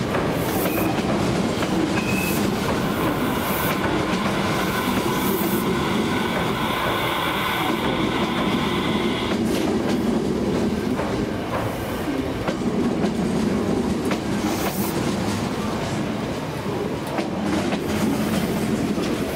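Osaka Metro 66 series electric commuter train running past along the platform, wheels clacking over rail joints, with a steady whine that stops about nine seconds in.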